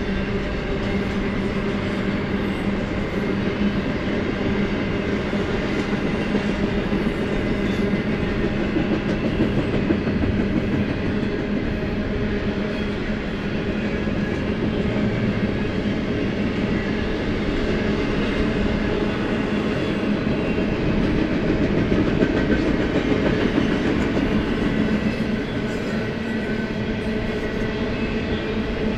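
BNSF double-stack intermodal freight cars rolling past at speed, a steady, unbroken rumble of steel wheels on rail.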